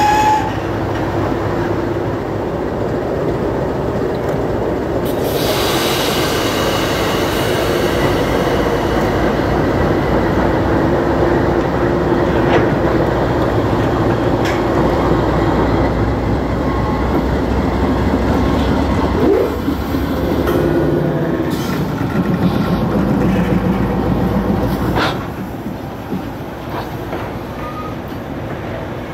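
A train rolling past, its railcars running by steadily. The sound drops off noticeably about 25 seconds in.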